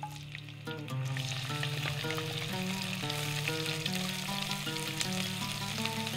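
Sliced onion, green chilli and garlic hitting hot oil in a cast-iron pot, a steady frying sizzle that starts about a second in. Background music of plucked notes plays under it.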